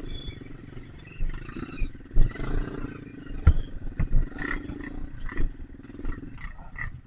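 Dirt bike engine running and revving, sound muffled by a rain cover over the camera, with several sharp knocks and clatter mixed in.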